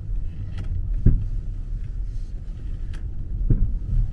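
Inside a 2009 BMW 5 Series driving slowly, steady road rumble with two dull clunks from the rear, about a second in and again near the end. This is the rear knock on turning that the car is being checked for; the mechanic finds it unrelated to the ball-joint play and feels something is banging about in the back.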